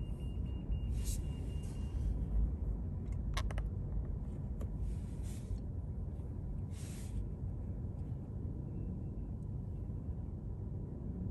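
Car driving on city streets: a steady low road rumble, with short hissing swells about one, five and seven seconds in and a few sharp clicks about three and a half seconds in.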